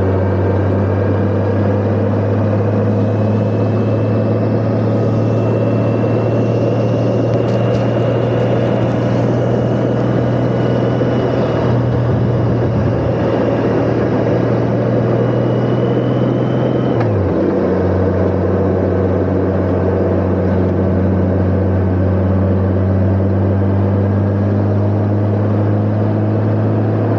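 Honda Gold Wing motorcycle cruising, a steady engine note over road and wind noise. A thin high whine climbs slowly in pitch and cuts off about seventeen seconds in, as the engine note steps down, then the engine runs on steadily.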